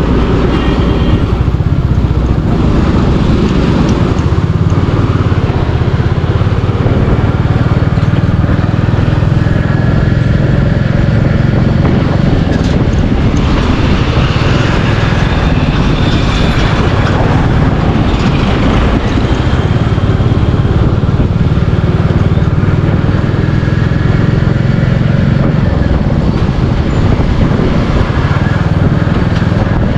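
Royal Enfield Classic 350's single-cylinder engine running steadily while riding at cruising speed, with road and wind noise.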